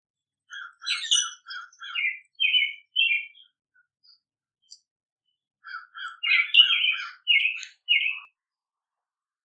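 A songbird singing two song phrases, one about half a second in and one about six seconds in. Each phrase opens with a quick run of short, lower notes and ends in several louder, higher notes.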